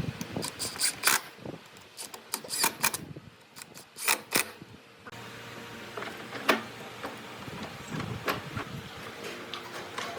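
Scattered knocks and clicks of tools and wood being handled, with the background changing abruptly about five seconds in.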